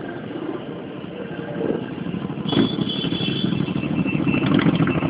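Motorcycle engines running in city street traffic, getting louder about halfway through, with a high steady tone added.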